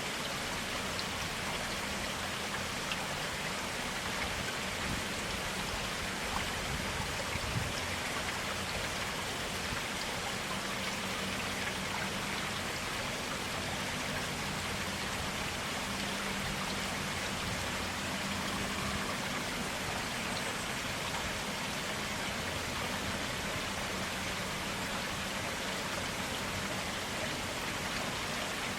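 Clear water in a small forest stream running steadily, a continuous splashing rush with faint individual drips and ticks.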